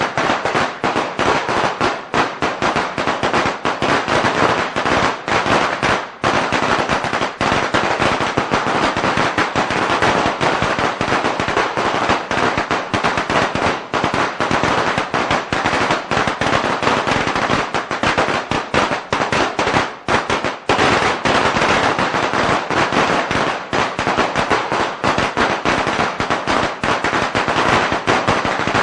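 A long string of Chinese firecrackers going off in an unbroken rapid crackle of pops, with no pause.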